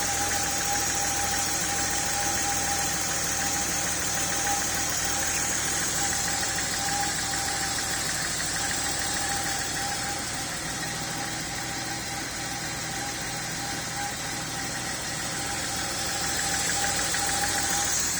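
Porsche 3.2 Carrera's air-cooled flat-six idling steadily once warmed up, with a constant thin whine over the engine note. The idle runs evenly even though cylinder 1 holds only 22 psi of 100 on the leak-down test.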